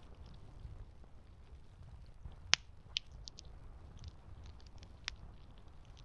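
Campfire crackling over a low steady rumble, with three sharp pops: the loudest about two and a half seconds in, another just after, and one near the end.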